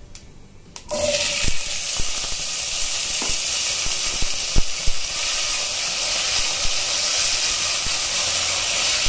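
Diced potatoes hitting hot oil and seeds in a stainless steel pot: a sizzle starts about a second in and carries on steadily. A few sharp clinks against the steel pot come over the next few seconds as the potatoes go in and are stirred with a slotted spoon.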